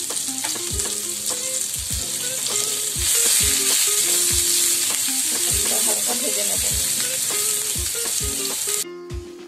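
Sliced onion and green chillies sizzling in hot oil in a nonstick frying pan while being stirred with a spatula, with light knocks of the spatula on the pan. The sizzle grows louder about three seconds in and drops away sharply near the end.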